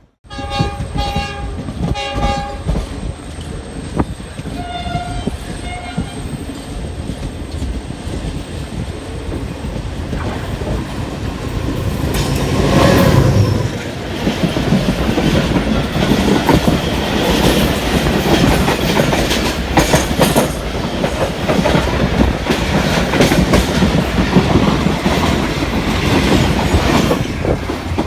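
Diesel-electric locomotive horns: three short blasts, then a lower-pitched blast about five seconds in. Then an express train passes close by, its rumble building to its loudest about 13 seconds in, followed by a steady clatter of coach wheels over the rail joints.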